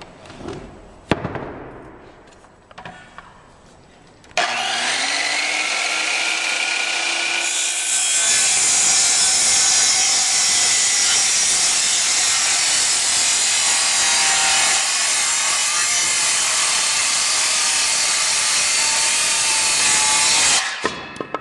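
Makita 5104 10-1/4-inch circular saw started about four seconds in, its motor whine rising as it spins up. It then cuts steadily and loudly through a thick wooden beam for about twelve seconds and stops suddenly near the end. Before the start there are a few light handling knocks and a sharp click about a second in.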